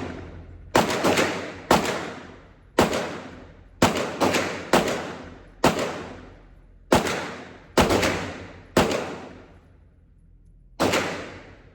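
Gunshots at a firing range: about a dozen sharp reports at an uneven pace, some in quick pairs and triples, each trailing off in a ringing echo.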